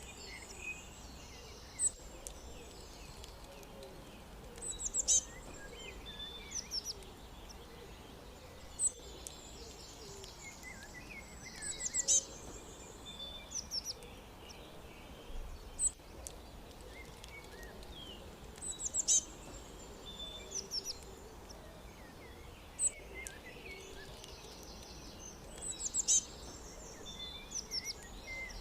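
Several songbirds chirping and trilling: short, sharp high notes come in clusters about every seven seconds, over a steady background hiss.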